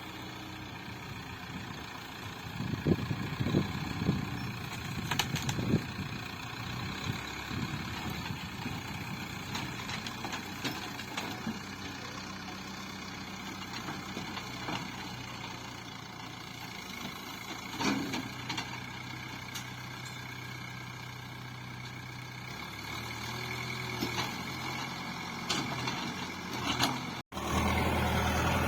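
Backhoe loader's diesel engine running steadily, with several sharp clanks and knocks, a cluster of them a few seconds in and another later. Near the end the sound breaks off abruptly and the engine comes back louder.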